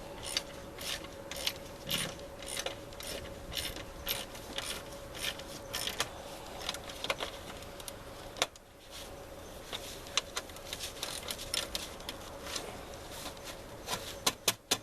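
Hand ratchet wrench clicking in irregular runs of quick clicks, with a faint steady hum underneath.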